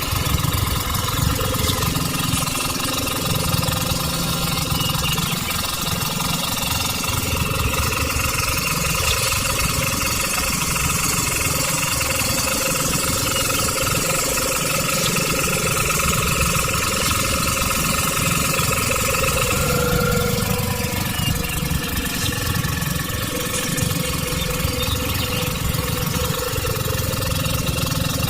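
Small engine running steadily with a fast, even knocking beat.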